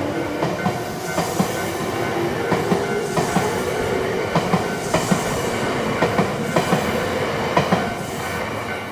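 Nankai electric train passing over a level crossing, its wheels clacking repeatedly over rail joints, with a slowly rising motor whine. A level-crossing warning bell rings faintly behind it, and the train noise drops away near the end.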